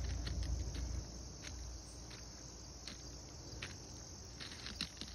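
Insects chirring steadily in a high, even drone, with scattered light crunches, likely footsteps on the track ballast.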